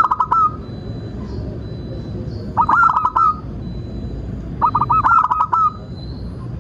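Zebra dove (perkutut) calling: three short bursts of quick, rolling cooing notes, about two seconds apart, over a steady low background rumble.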